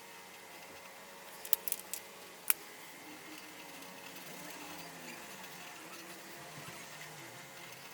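Faint room tone with a quick cluster of small clicks about one and a half seconds in and a single sharper click about a second later, typical of coloring tools being handled; a faint wavering background sound follows.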